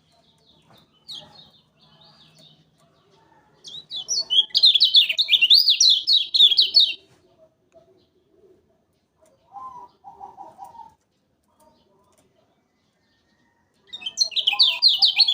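Kecial kuning, a Lombok white-eye, singing loud bursts of very rapid, high, zigzagging trilled notes: one long bout of about three seconds and another starting near the end, with faint chirps before and a lower, short chatter in between.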